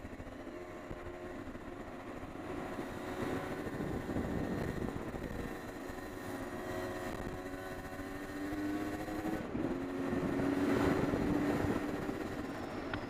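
Honda CR250R two-stroke single-cylinder dirt bike engine running on the trail, its pitch rising and falling with the throttle, loudest in two stretches partway through and again toward the end, over rough wind and ground noise.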